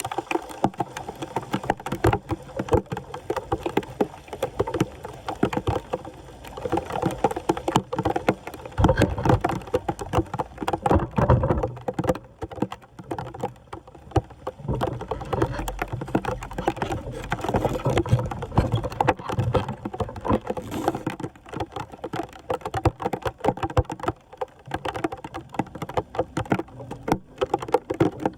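Floodwater splashing and sloshing in irregular bursts, busiest about a third of the way in and again past the middle.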